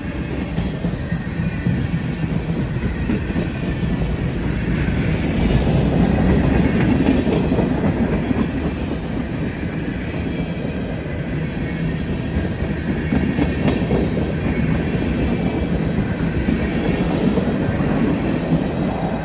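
Freight train tank cars rolling past close by: a steady, loud rumble of steel wheels on the rails, swelling for a few seconds about a third of the way through.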